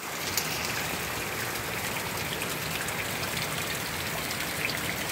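Steady heavy rain from a tropical storm, an even hiss with scattered drop ticks.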